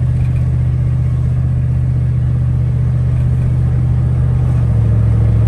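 Chevrolet Silverado's LS V8 droning steadily, heard from inside the cab while driving. Near the end the pitch steps down, as the automatic transmission shifts up.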